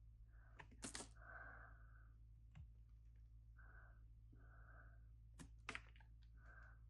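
Faint, quiet knife work on a bar of soap: two short crisp scraping cuts, one about a second in and one near the end, over a low steady hum and soft recurring puffs.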